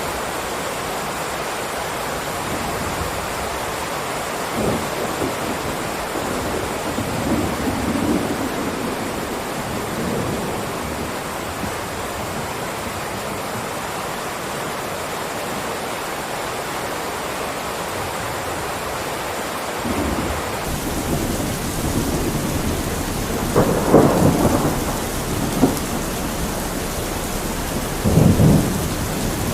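Steady rain falling, with low rumbles of thunder rolling through. The loudest two rumbles come in the last several seconds.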